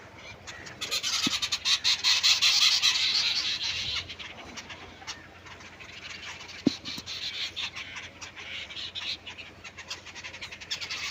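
Birds calling and chattering in a dense, busy chorus, loudest in the first few seconds and then coming and going. One sharp click about two-thirds of the way through.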